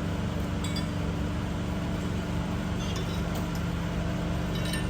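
Forklift engine idling steadily, with a few light metallic clinks.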